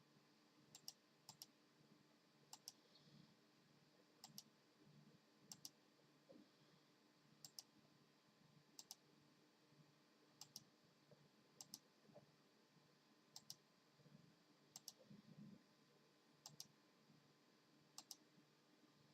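Faint, sharp clicks in a quiet room, often two close together, recurring irregularly about once a second.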